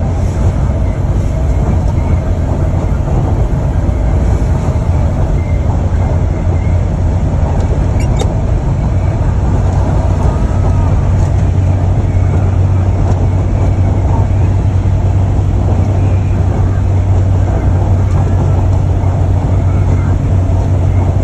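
Steady low rumble and road noise of a moving vehicle, unbroken throughout, with a single sharp click about eight seconds in.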